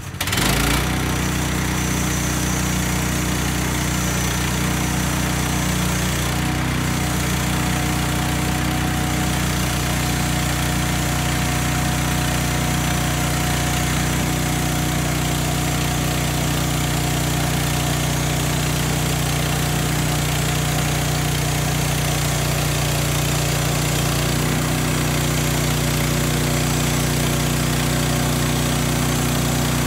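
Portable band sawmill's small petrol engine running steadily, with a slight shift in its tone about two-thirds of the way through.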